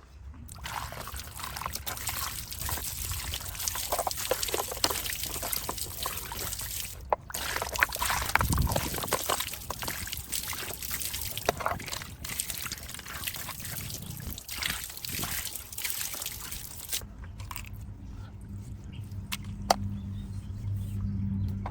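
Water trickling and splashing over a diecast model car being washed, with many small clicks and spatters. About three-quarters of the way through the splashing stops, and a steady low hum takes over.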